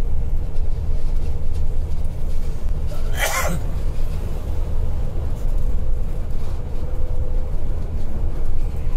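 Scania K410iB coach running at speed on the highway, a steady low rumble of engine and road noise. About three seconds in there is one short, hissing burst.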